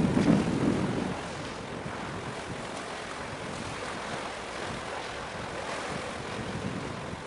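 Wind buffeting the microphone: a steady rushing noise, with a stronger low gust in the first second.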